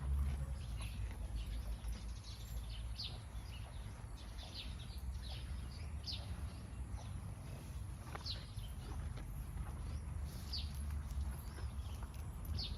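Cattle grazing, tearing and chewing grass in short, crisp crunches about once a second, over a low rumble of wind on the microphone.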